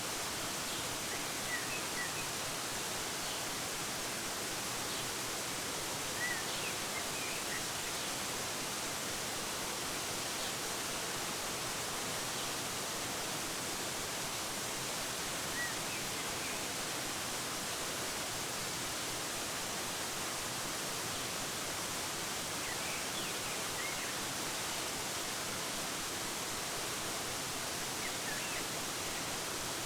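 Waterfall splashing over rocks, a steady even rush of water. A few faint short bird chirps come through now and then.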